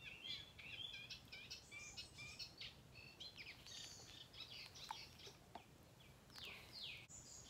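Faint birdsong: many short chirps and calls overlapping, with one falling call near the end.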